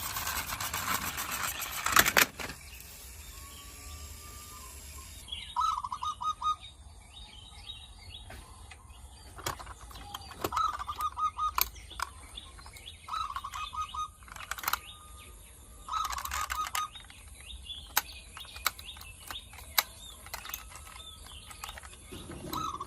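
A bird chirping in short, rapid trills, repeated every few seconds, with scattered sharp clicks and taps in between.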